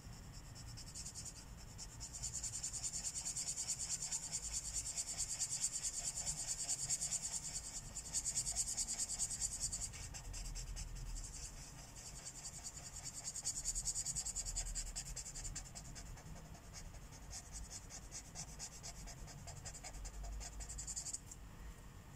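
Marker tip scratching across paper in quick back-and-forth strokes as an area is colored in, easing off briefly around the middle and stopping about a second before the end.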